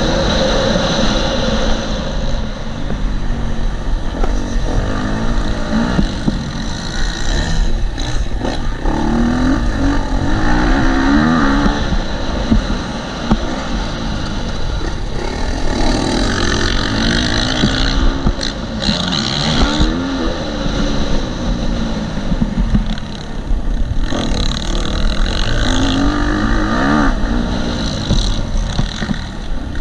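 A 2018 KTM 250 SX-F dirt bike's single-cylinder four-stroke engine, ridden hard round a motocross track, its revs climbing and dropping again and again through the turns and jumps.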